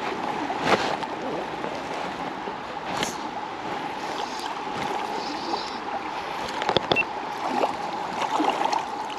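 River water running and burbling steadily close by, with a few short knocks or splashes.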